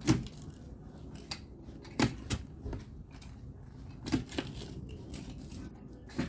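Tie-down strap hardware being worked while a boat is strapped down: a few sharp metallic clicks, some in close pairs, about two seconds apart.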